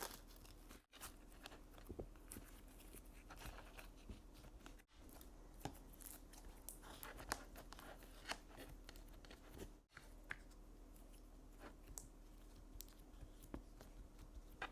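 Slime being squeezed and pressed by hand, giving faint, irregular crunchy crackles and small clicks.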